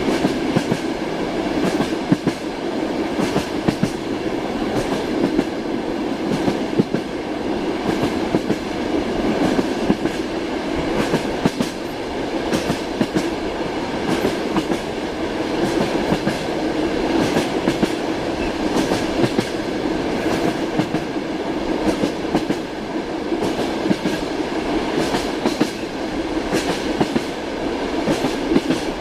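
Railway carriage running along the rails: a steady rumble with the clickety-clack of the wheels knocking over the rail joints.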